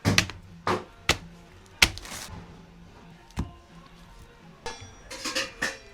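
A series of sharp, irregularly spaced knocks or chops, five spread out, then a quick cluster of several near the end.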